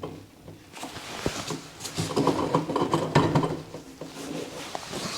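Creaking and groaning of a BMW E46 rear subframe shifting and settling onto its support as it comes free, with a few knocks; the creaking is loudest about two to three and a half seconds in.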